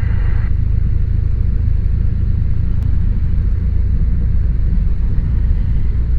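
Cessna 172's piston engine running at low taxi power, a steady low rumble with no change in pitch.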